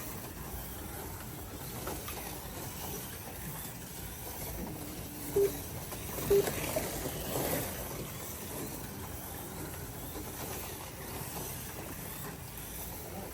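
Slot cars racing on a club track: a steady whirr of small electric motors and cars on the track, with two short beeps about a second apart midway through.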